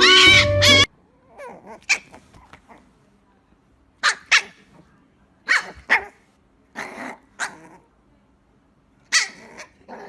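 Loud music cuts off under a second in; then a dog barks in short pairs, with quiet pauses between.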